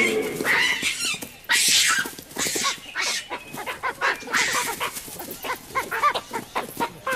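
Olive baboons calling in agitation, a rapid run of many short screams and barks that overlap one another, the sound of a troop being harassed by a dominant male.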